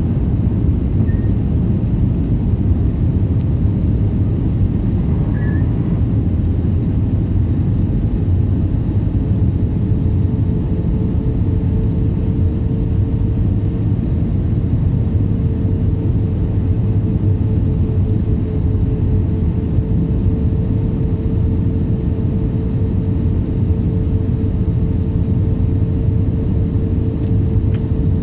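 IndiGo airliner during its landing approach: a steady low rumble of jet engines and rushing air, with a steady hum joining about a third of the way in.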